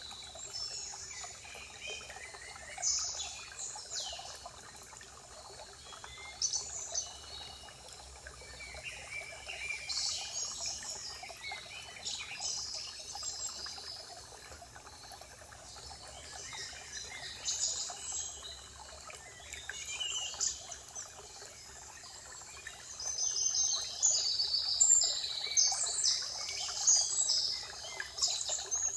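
Several songbirds chirping and singing over a steady trickle of running water, with the birdsong busiest and loudest near the end.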